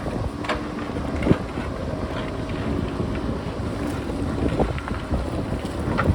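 Wind buffeting the microphone over a JCB backhoe loader's diesel engine running steadily, with several sharp knocks and clatters of rock, the loudest about a second in and again near the end.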